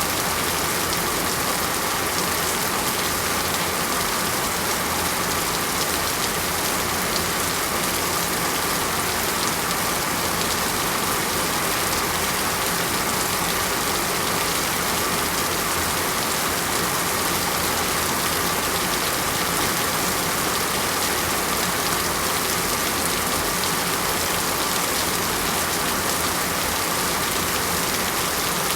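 Heavy rain falling steadily on a surface, a constant even hiss with no changes.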